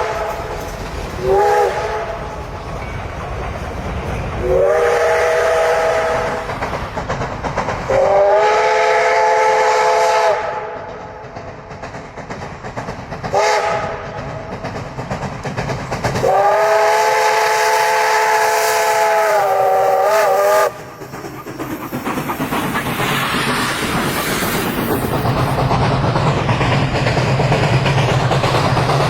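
Steam locomotive whistle sounding five blasts of a chord of several tones, short and long blasts mixed, the last and longest wavering as it closes. After the whistling stops the train runs on with a steady rumble, hiss and clickety-clack of wheels on rail joints.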